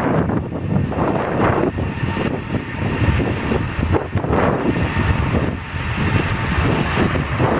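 Jet airliner engine noise, a loud, steady rumble that rises and falls a little.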